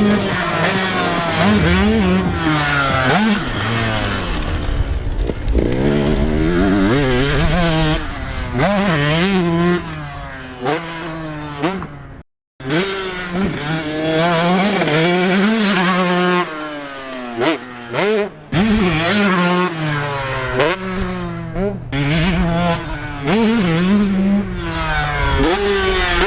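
Motocross dirt bike engine revving hard and backing off again and again, its pitch climbing and falling as it works through the gears and over jumps. The sound cuts out completely for a moment about twelve seconds in.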